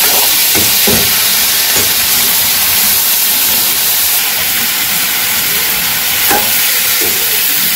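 Sliced bitter gourd frying in hot oil in a metal karahi: a loud, steady sizzle, with a metal spatula stirring and scraping the pan a few times.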